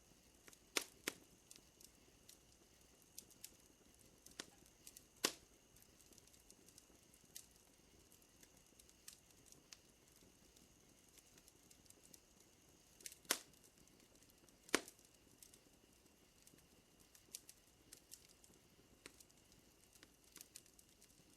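Wood fire crackling with irregular sharp pops, the loudest about a second in, at about five seconds, and twice between thirteen and fifteen seconds. Behind it runs a faint, steady, high drone of night insects.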